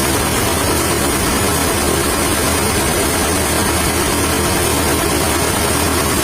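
A heavy engine running steadily, with no change in speed.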